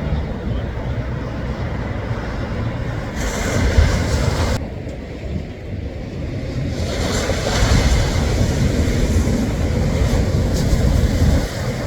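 Ocean surf with strong wind buffeting the microphone as a heavy low rumble. The hiss of breaking waves swells twice, briefly about three seconds in and for longer from about seven seconds until near the end.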